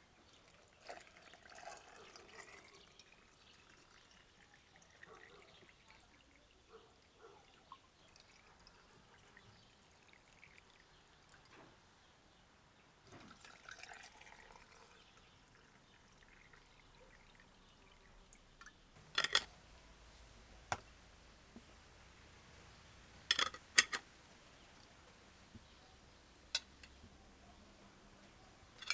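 Liquid being poured in two short spells, the pitch rising as the vessel fills, followed by a few sharp clinks or knocks.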